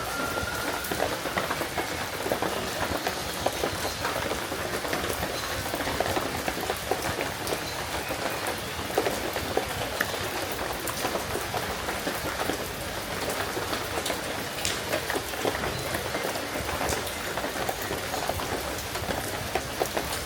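Steady rain falling, with many close, distinct drop hits over an even hiss.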